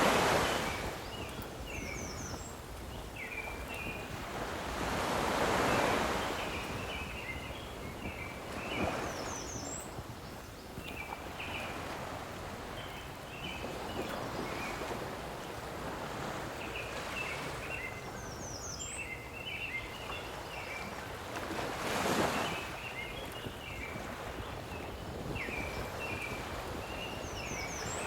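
Small lake waves washing against the shore, rising and falling in slow swells, with wind. A songbird repeats the same short song, a quick run of high notes falling in pitch and then lower chirps, about every eight or nine seconds.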